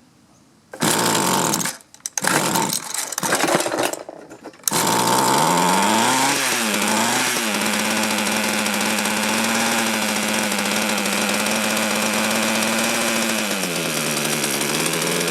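Mantis mini tiller's two-stroke engine firing in a few short sputtering bursts, then catching about five seconds in and running steadily at high throttle. It revs up and down briefly around six seconds and drops in speed for a moment near the end. The engine is running after its carburettor's low-speed screw was turned out half a turn.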